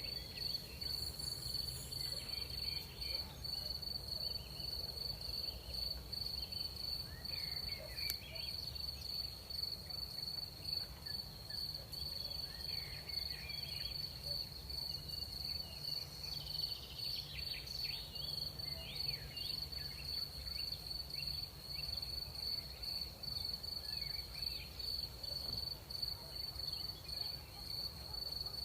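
Crickets trilling in a steady chorus on one high unbroken note, with faint short chirps scattered lower down and a low background rumble.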